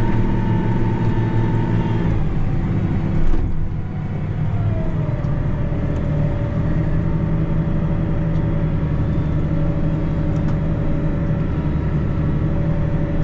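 Tractor engine running steadily, heard from inside the cab, with a whine that drops to a lower pitch about four seconds in as the engine slows. A brief louder knock comes just after three seconds in.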